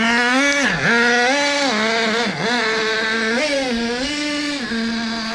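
1:8 scale RC car's motor running hard in snow, a steady buzz whose pitch dips sharply and climbs back several times as the throttle is let off and opened again, then holds steady near the end.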